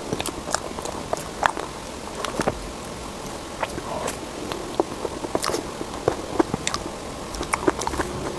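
A person chewing food close to the microphone: irregular wet mouth clicks and smacks, a few each second.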